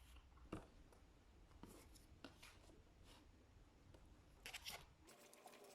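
Faint writing sounds over quiet room tone: scattered scratches and taps of a pen, with a sharper tap about half a second in and a short cluster just before the end. The low room hum cuts off near the end.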